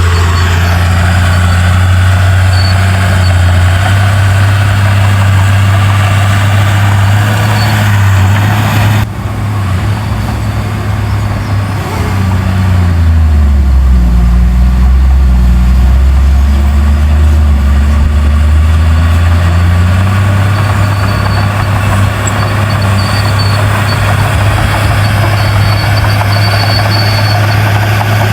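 Heavy diesel engine of large earthmoving machinery running steadily. Its pitch sags lower for several seconds past the middle, then comes back up.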